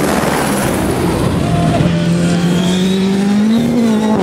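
Rally car at speed on a stage: a rush of tyre and gravel noise for the first couple of seconds, then the engine holding steady revs, its pitch rising slightly and easing back near the end.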